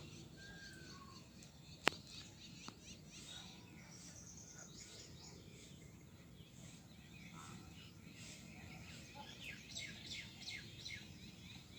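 Faint chorus of small birds chirping and twittering, with many short overlapping calls and a few brief whistled notes. A sharp click sounds about two seconds in, with a weaker one just after.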